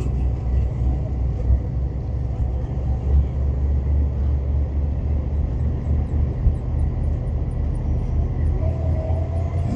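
Camper driving on the highway: a steady, low rumble of engine and road noise.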